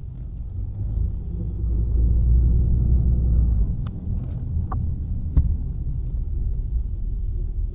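Car interior road rumble while driving over snow-covered road, a steady low drone, with a few short sharp knocks around the middle.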